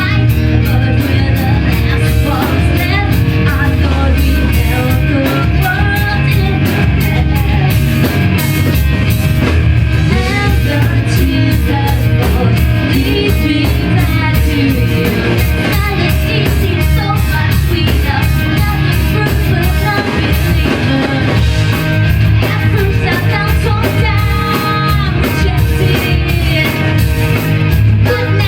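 A rock band playing loud live music, with drum kit beating a fast, steady rhythm under guitars and bass.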